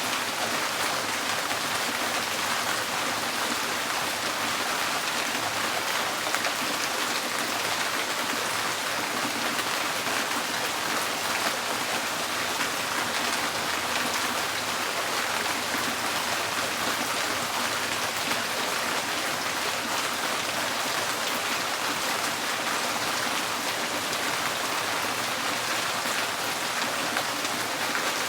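Steady rain drumming on a tin porch roof, a dense even patter of drops.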